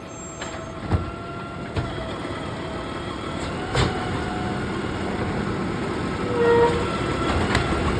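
Garbage truck engine running and growing steadily louder, with several sharp metallic clanks and knocks.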